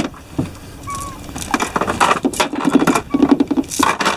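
Anchor line being hauled in by hand over the stern, the rope scraping and rasping in irregular strokes that come faster after the first second or so. A few short chirps sound among them.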